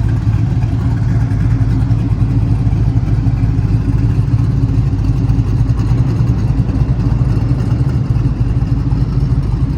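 Twin-turbo LS3 V8 of a 1971 Chevelle restomod, fitted with a Brian Tooley Racing stage 2 cam, idling with a steady low rumble.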